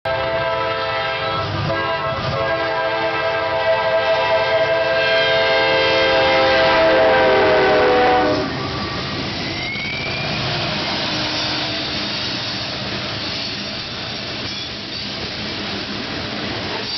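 CSX freight train's diesel locomotive air horn sounding a long chord for about eight seconds, its pitch dropping slightly as the locomotives pass, then cutting off. After that, the locomotives and loaded freight cars rolling by on the rails in a steady rumble.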